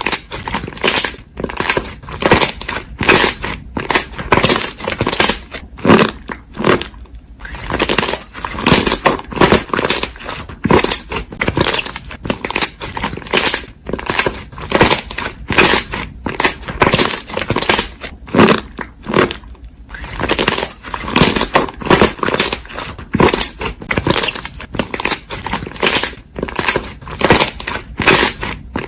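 Crunchy slime being squeezed and pressed by hand, crackling with each squish, about two crunchy crackles a second with a couple of short pauses.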